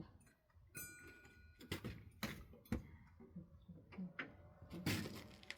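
Scattered light knocks and clicks from wooden pallets being handled and shifted into place, about five in all, the first with a short metallic ring about a second in.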